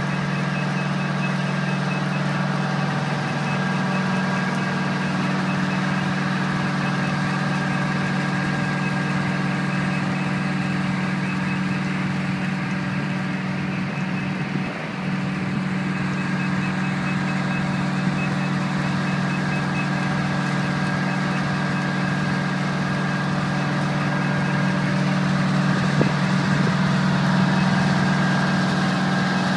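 Fire truck's Detroit Series 92 diesel engine running steadily, with a rapid high-pitched beeping warning alarm sounding over it.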